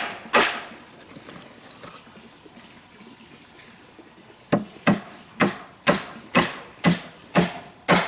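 A hand tool striking wood in a steady rhythm: one blow, a pause of about four seconds, then a run of about eight blows at roughly two a second.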